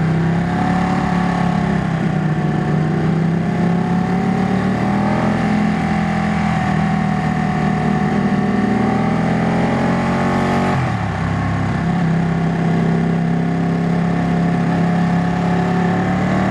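Ducati Panigale superbike engine running at a steady cruising pace on the road. The engine note dips briefly about eleven seconds in, as with a gear change or a roll-off of the throttle, then holds steady again.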